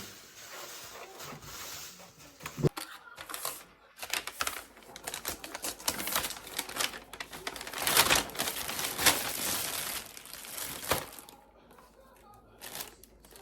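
Packaging being handled and opened: crinkling, rustling and tearing in irregular bursts, loudest about eight seconds in.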